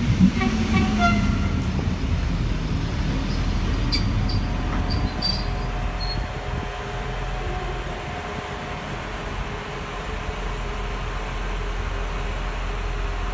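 An SKM electric commuter train accelerates away past the platform, its rumble and a stepped, rising motor whine loudest in the first couple of seconds and then fading. A steady engine hum from a slow-moving railcar remains, with a few light metallic clicks partway through.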